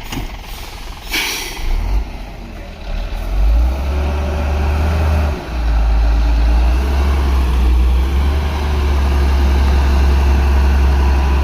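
Heavy diesel truck engine running under load, with a short hiss of air brakes about a second in. From about four seconds a loud low rumble and a wavering engine tone take over.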